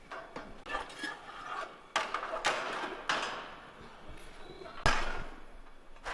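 Clattering and knocking, with sharp knocks about two, three and five seconds in.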